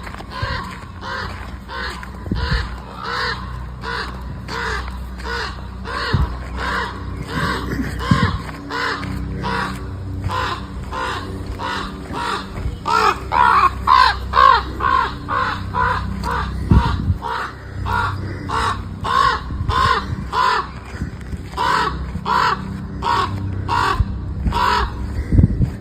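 Crows cawing over and over, about two harsh caws a second, with several birds calling at once and the calling busiest about halfway through. A few low thuds sound in among the calls.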